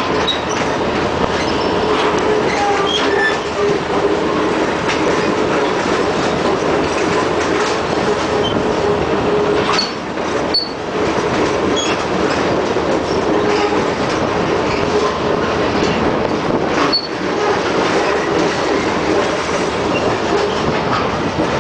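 Passenger train rolling round tight curves: a steady rumble of wheels on rail, with short high wheel squeals now and then and a faint steady squeal tone underneath.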